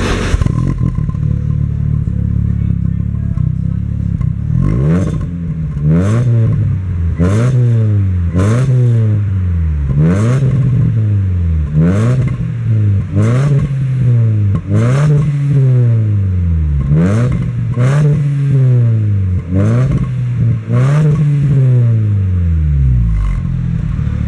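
Opel Corsa B's X16XE 1.6-litre four-cylinder engine, breathing through a handmade exhaust from headers to a twin-tip rear muffler, idling and then blipped over and over. Its pitch rises sharply and falls back about once every second and a half, a dozen or so times.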